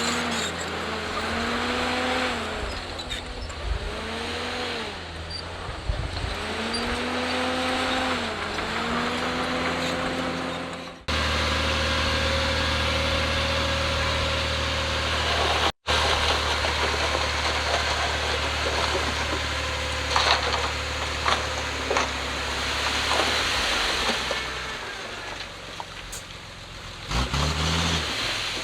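Heavy earthmoving machine's diesel engine working under changing load, its pitch dipping and climbing back about every two seconds. After an abrupt cut about eleven seconds in it runs at a steadier pitch. Another short cut comes near the middle, and the engine revs up near the end.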